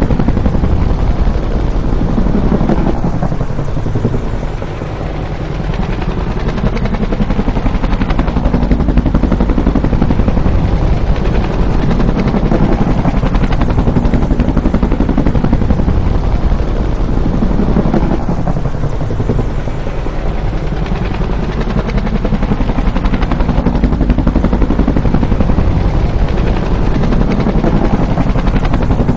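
Bell UH-1 "Huey" helicopter, loud and continuous. The sound dips and sweeps in pitch as it passes, about four seconds in and again about nineteen seconds in.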